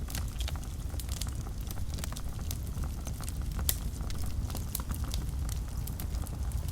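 Wood fire burning in a fireplace: a steady low rumble of flames with irregular crackles and pops, one sharper pop a little past halfway.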